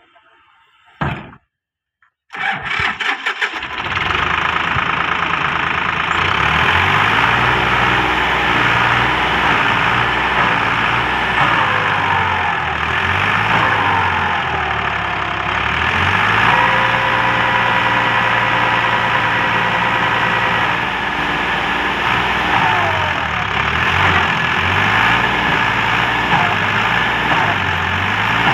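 Tractor engine cranking and catching about two and a half seconds in, after a short burst about a second in. It then runs steadily, its speed dipping and rising now and then.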